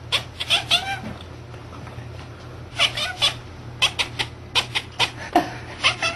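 A cat meowing in a string of short calls, several in quick succession, over a steady low hum.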